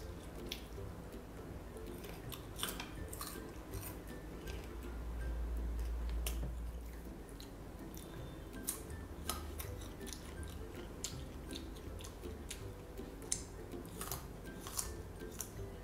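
Close-miked eating of mango slices: chewing and biting, with scattered sharp clicks and scrapes as the slices are dipped into a plastic tub of dipping powder.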